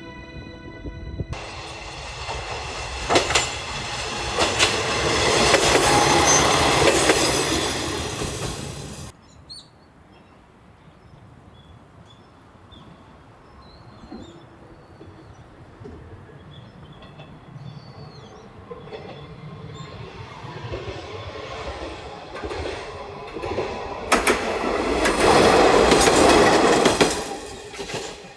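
Heisei Chikuho Railway diesel railcar passing close by, its wheels clicking over the rail joints, then dropping away suddenly. It is loud again near the end as a train passes once more.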